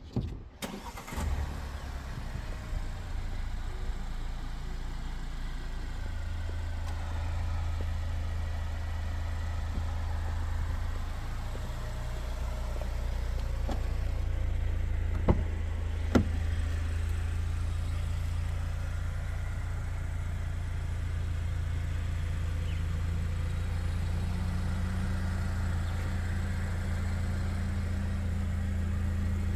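Chery Tiggo 8 Pro Max's engine starting about a second in, with the key fob in hand, then idling steadily; the idle hum rises a little in steps. Two sharp clicks come about halfway through.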